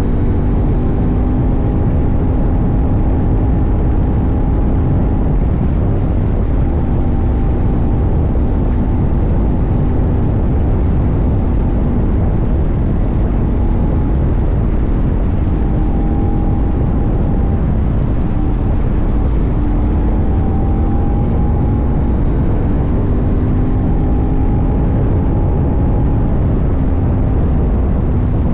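CFMoto 800NK's parallel-twin engine running at a steady cruise, its pitch drifting slightly with small throttle changes, over a steady low rumble of wind.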